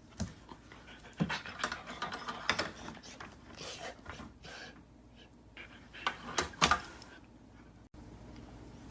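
An animal panting, with irregular light clicks and taps.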